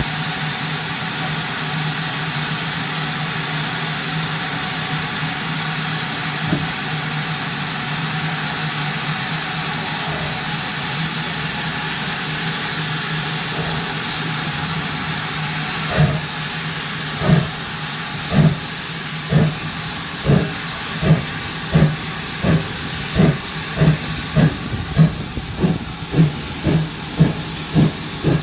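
GWR 57xx-class pannier tank steam locomotive hissing steadily. About halfway through, its exhaust beats begin, slow at first and quickening to about two a second as it gets under way.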